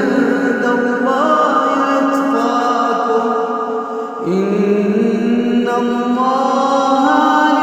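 A male voice recites the Quran in a melodic chanted style, drawing out long held notes that turn slowly in pitch. There is a short break for breath about four seconds in.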